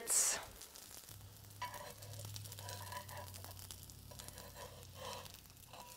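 Black bean quinoa veggie patty frying in oil in a cast-iron skillet, sizzling faintly, with a few light ticks over a steady low hum.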